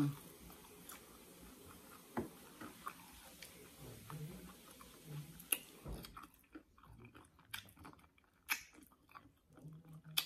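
A person chewing and biting into fried meat, close up: scattered wet mouth clicks and smacks, with a few short low hums.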